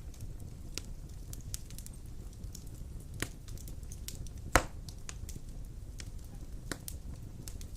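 Wood fire burning in a stone fireplace: a steady low rumble of flames with scattered sharp crackles and pops, and one much louder pop a little past halfway.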